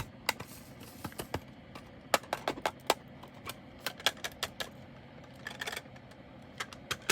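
Irregular light clicks and taps as small plastic bags of diamond-painting drills are handled, in small quick clusters.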